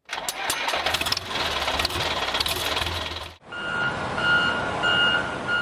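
Vehicle engine running with a rattling clatter. After an abrupt cut, a reversing beeper beeps about four times, evenly spaced, over the engine noise.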